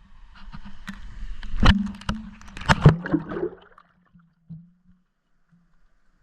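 Action camera being tossed into a stream on a line: splashing and water noise with several sharp knocks against the housing for about three and a half seconds, then muffled underwater quiet with a faint low hum.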